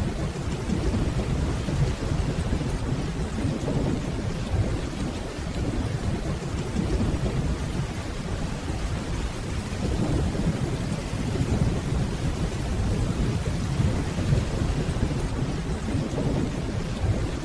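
Steady heavy rain with a low, rolling rumble of distant thunder underneath.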